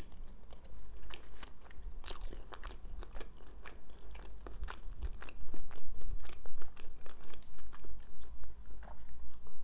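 Close-up chewing of a mouthful of shawarma wrap: a steady stream of small crunching, clicking mouth sounds.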